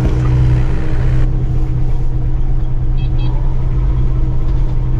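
The engine of a piece of heavy equipment running with a steady low drone while the machine is driven over to pick up a log.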